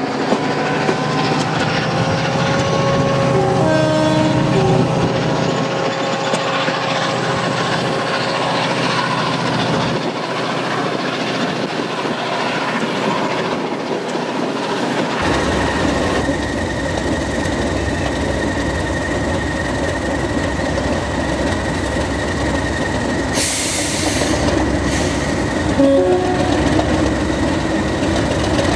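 Running noise of a heritage-railway train heard through an open carriage window, with wheel noise and some short squealing tones. About halfway through it changes abruptly to a diesel locomotive's engine rumbling steadily at a station, with a short loud hiss about two-thirds of the way through.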